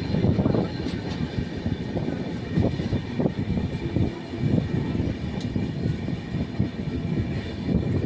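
Indian Railways train running along the track: a steady low rumble with many irregular knocks.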